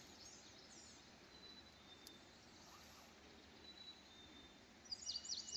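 Faint birdsong: scattered quick chirps and a few thin, held whistles, with a quicker run of chirps near the end.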